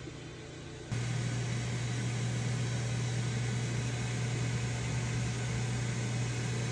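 Coffee maker's pump switching on about a second in and running with a steady low hum and hiss as it brews.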